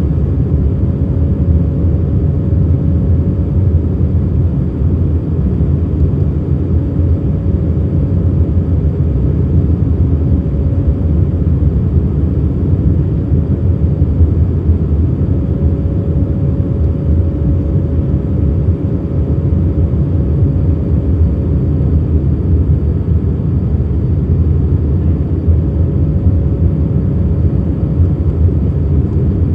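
Airbus A319 cabin noise in the climb after take-off: engines and airflow making a steady, loud low rumble, with a faint steady tone held through it.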